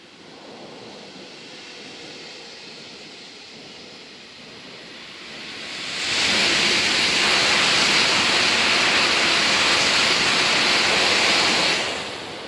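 Tokaido Shinkansen high-speed train passing through at speed: a rising rush of approach, then a loud, steady rush of air and wheel noise that starts abruptly about six seconds in, lasts about six seconds and cuts off sharply as the train clears.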